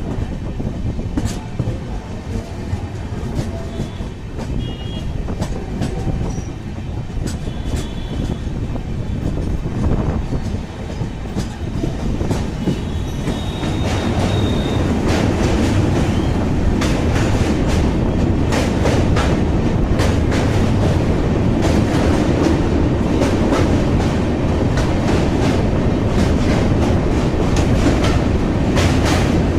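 Express train running at speed, heard from on board: a steady rumble with wheels clicking over the rail joints. It grows louder about halfway through.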